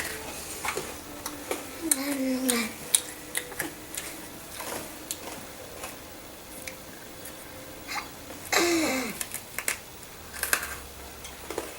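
Scattered crisp crackles and crunches of freeze-dried astronaut ice cream being bitten, chewed and broken up, with two short hummed vocal sounds, one about two seconds in and one near the end.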